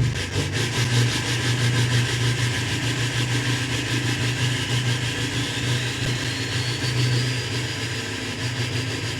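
L5P Duramax 6.6-litre V8 turbo-diesel catching on a cold start and settling into a steady idle. A faint whine rises in pitch through the middle of the idle.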